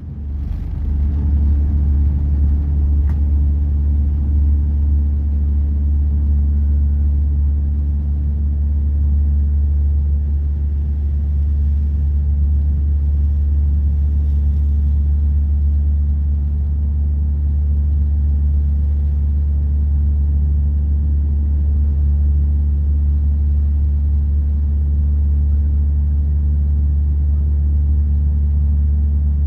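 Steady, loud low rumble of an airliner's engines and airflow heard from inside the passenger cabin, with a few steady hum tones over it and no change in pitch or level.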